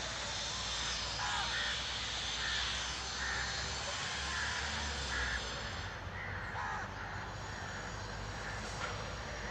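Crows cawing repeatedly, in short calls at irregular intervals, over a steady outdoor hiss and low rumble.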